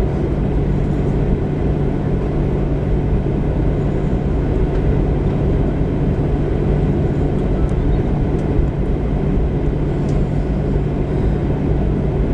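Steady cabin noise inside a Boeing 737-700 taxiing after landing: its CFM56-7B engines idling with a low hum over a constant rumble.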